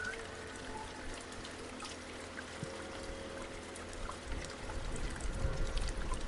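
Rain falling, with the steady sound of water pouring and trickling and many small scattered drop ticks over it.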